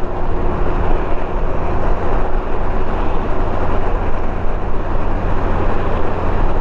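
2021 Honda Gold Wing Tour's flat-six engine running steadily while riding, under an even rush of wind and road noise.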